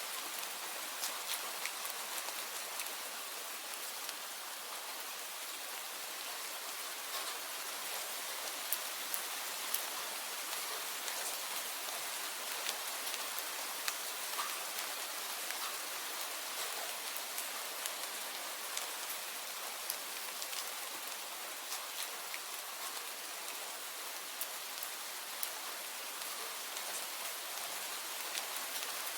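Steady rain falling: an even hiss with scattered sharp clicks of individual drops.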